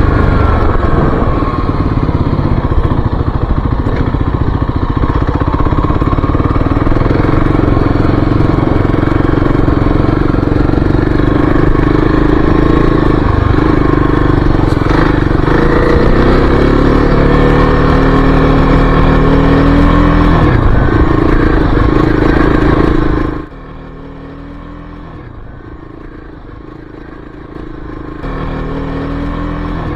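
A 2023 Kawasaki KLX-300's single-cylinder four-stroke engine running loud while riding on a trail, its pitch rising and falling with the throttle. About 23 seconds in the sound drops off sharply, then comes back partway near the end.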